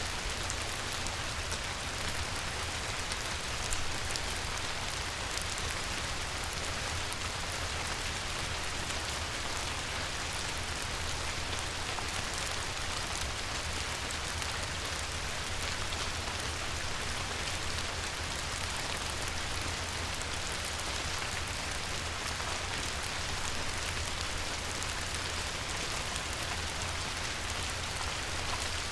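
Light rain falling on a river, a steady even patter of many small drops on the water, with a constant low rumble underneath.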